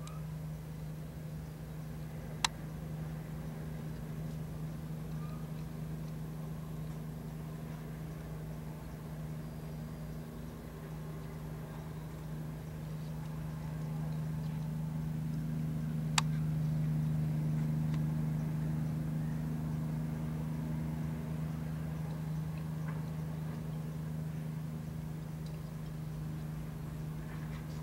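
Vehicle engine idling with a steady low hum that swells for a while past the middle, with two sharp clicks, one a couple of seconds in and one just past the middle.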